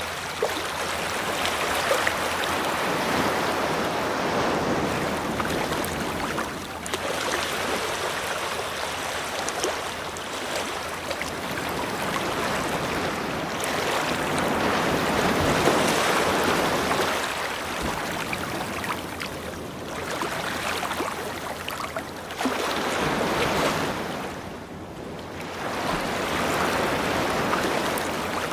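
Ocean surf washing onto a beach: a continuous rushing hiss that swells and eases in slow surges every several seconds, with a brief lull near the end.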